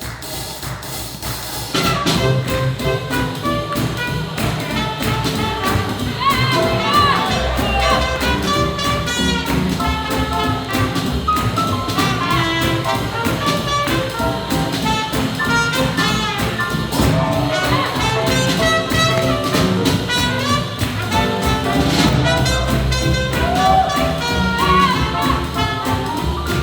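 Live swing jazz band with trumpet and saxophone playing over a steady beat, the full band coming in sharply about two seconds in.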